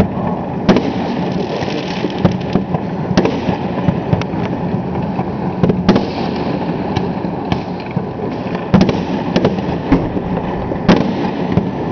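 Many fireworks and firecrackers going off at once: a dense, unbroken crackling din with sharper, louder bangs at irregular intervals, several times a second.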